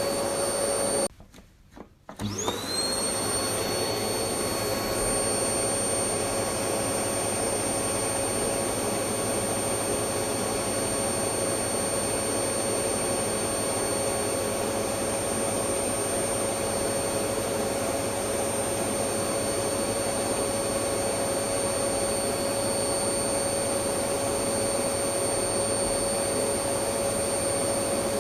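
Electric vacuum cleaner running with a steady hum and a high-pitched motor whine. About a second in the sound cuts out for about a second, then the motor starts again, its whine rising quickly to full speed before running steady.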